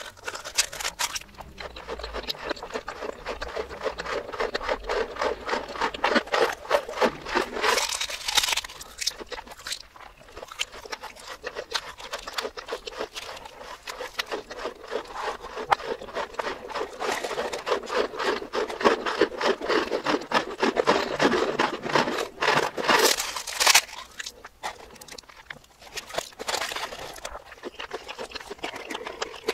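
Close-miked ASMR eating sounds played in reverse: a dense run of crunches, chewing and wet mouth clicks from crispy fried food such as breaded cheese balls and potato chips, with louder crunchy stretches about a quarter of the way in and again about three quarters through.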